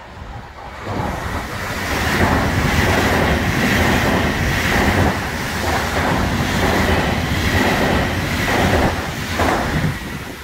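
A Rhein-Ruhr-Express double-deck electric multiple unit passing through the station at speed. Rushing wheel and track noise builds over about two seconds, with a steady high-pitched hum over it and a regular pulsing as the cars go by. It drops away near the end.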